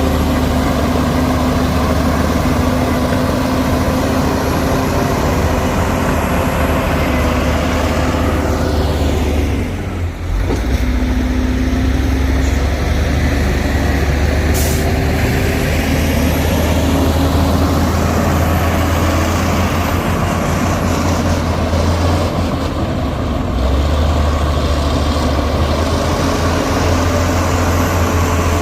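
Heavy diesel engines of earthmoving machinery running steadily with a deep drone. The engine note sags and shifts briefly about a third of the way in, and a short high hiss comes about halfway.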